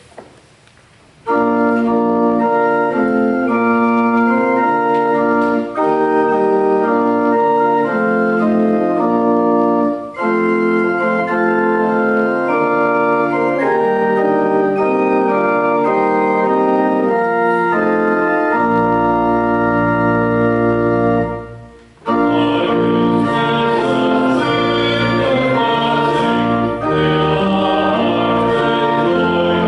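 Church organ playing sustained chords as a closing voluntary, starting about a second in with short breaks between phrases. Deep bass notes come in past the middle, and after a brief dip the organ plays fuller and brighter.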